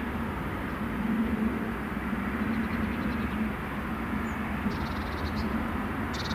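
Diesel freight train running by, a steady rumble with a low engine hum. A few faint high chirps come near the end.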